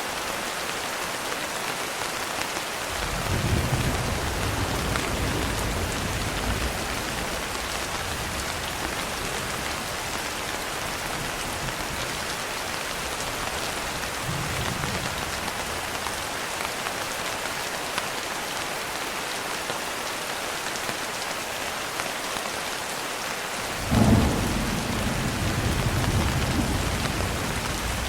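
Steady rain falling, with low rolls of thunder about three seconds in and again near the end; the second roll starts with a sharper clap.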